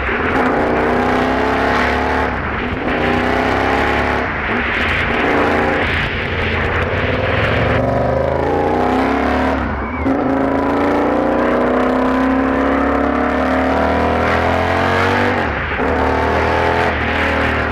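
KTM 1190 R's V-twin engine through a Bursig aftermarket exhaust, accelerating on a ride: the revs climb steadily and drop back at gear changes four or so times.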